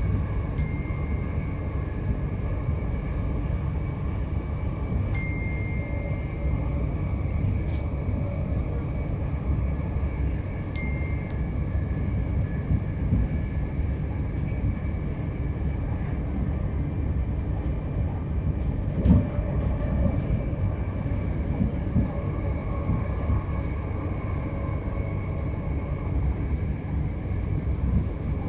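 c2c electric train running at speed on the rails: a steady low rumble with scattered clicks from the track, a few brief high squeals in the first half, and one sharper knock about two-thirds of the way through.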